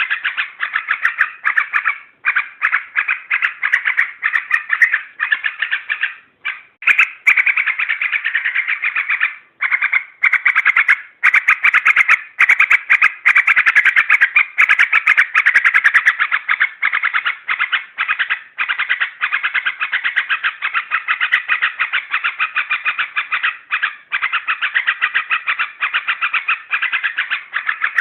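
Yellow-vented bulbul (trucuk) calling in a fast, unbroken chatter, with a couple of short pauses early on. It is a lure recording meant to rile trucuk into answering.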